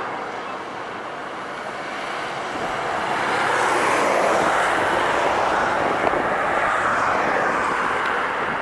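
Heavy trucks passing on a highway: tyre and engine noise swelling to a loud, steady rush about three to four seconds in.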